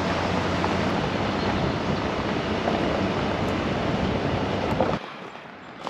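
Truck driving, a steady rush of road and wind noise over a low engine hum; it cuts off abruptly about five seconds in.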